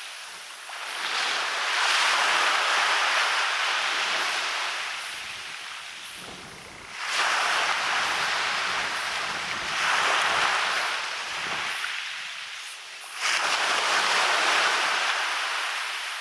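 Small waves breaking and washing up onto a beach. The hiss of surf swells and fades in four surges a few seconds apart.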